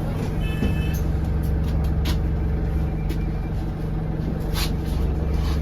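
Alexander Dennis Enviro200 single-decker bus's diesel engine running steadily, heard from inside the passenger cabin. Short sharp hisses come about two seconds in and again about four and a half seconds in.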